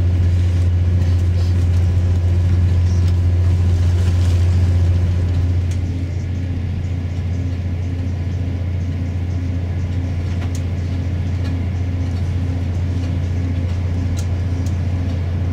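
Steady low rumble and drone of a diesel passenger train heard from inside the carriage while it runs along the line, dropping a little about six seconds in.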